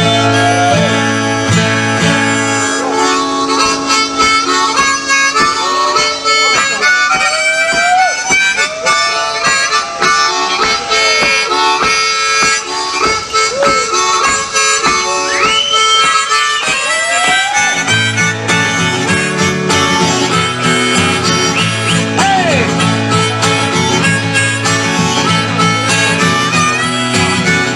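Harmonica playing a bluesy instrumental intro of a folk song with many bent, sliding notes. A low accompaniment part drops out about three seconds in and comes back about two-thirds of the way through.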